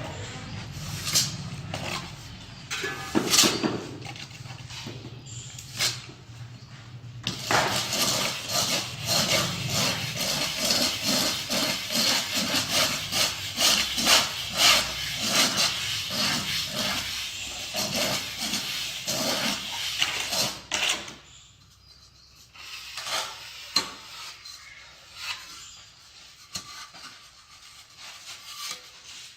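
Quick, repeated scraping and tapping of hand tools on hard material, typical of tile-setting work. The strokes are scattered at first, come thick and fast for about thirteen seconds from roughly a quarter of the way in, then thin out to a few quieter knocks.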